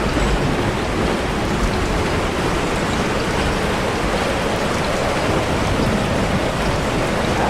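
A steady, even rushing noise, like rain, with no tone or rhythm in it.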